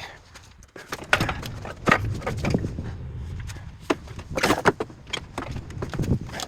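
Irregular metal clanks and knocks from an engine being maneuvered into a truck's engine bay and jostled to line it up with the transmission.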